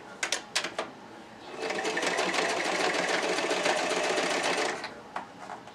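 Sewing machine stitching hair tracks onto a wig cap, running steadily for about three seconds, with a few sharp clicks before it starts and after it stops.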